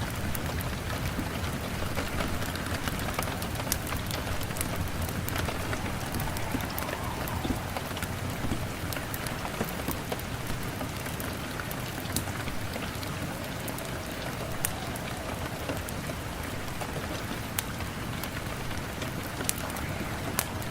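Steady rain, with frequent short sharp crackles of a wood fire scattered through it.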